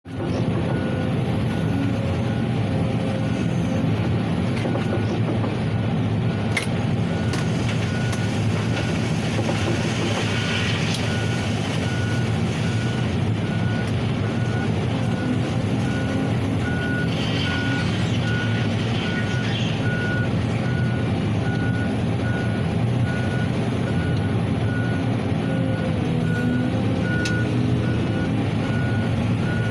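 Heavy dump truck's reversing alarm beeping at a steady, even rate of about one beep a second over the truck's engine running.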